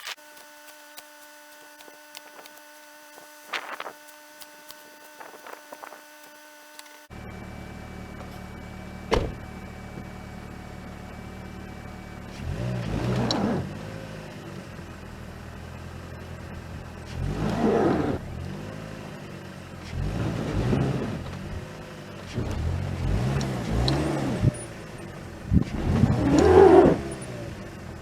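Car engine running steadily, then revved hard five times in surges of a second or two, as the car tries to drive out through deep snow. The first few seconds before the engine comes in are quiet, with only faint steady tones and a few clicks.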